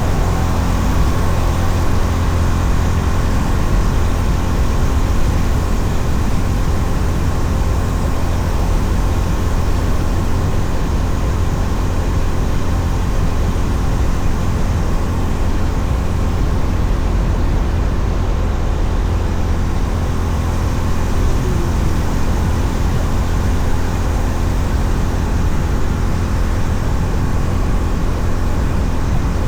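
Honda CB350RS being ridden at a steady cruise: a continuous rush of wind on the microphone over the engine and road noise, heaviest in a low rumble, with no change in pace.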